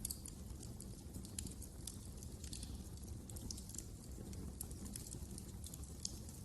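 Wood fire crackling: frequent small, irregular pops and snaps over a low, steady rumble.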